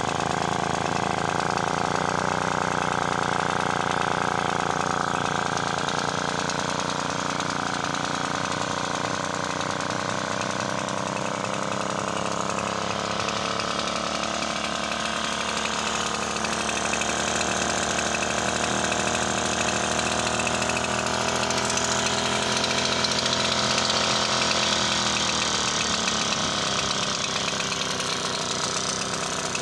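Effzett two-stroke outboard motor running, picking up speed at the start, holding a steady pace, then throttled back to a lower note near the end.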